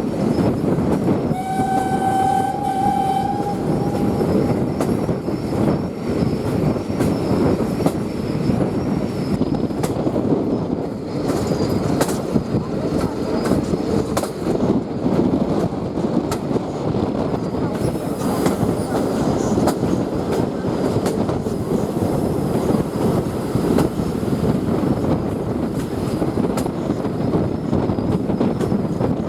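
A train running steadily on the rails, a continuous loud rumble with clickety-clack, and the steam whistle of the Ty42 steam locomotive blowing one note lasting about two seconds, starting about a second and a half in.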